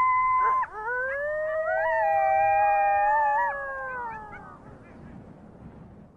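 Several wild canids howling together in long, smooth overlapping howls at different pitches. Each howl rises, holds, then slides down and fades away after about four seconds.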